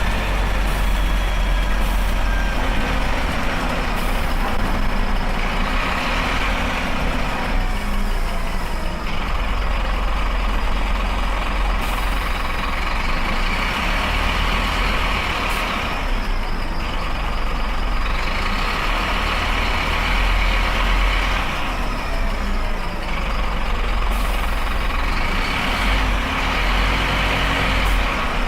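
Scania bus engine running steadily with a deep rumble, with swells of higher-pitched noise every few seconds.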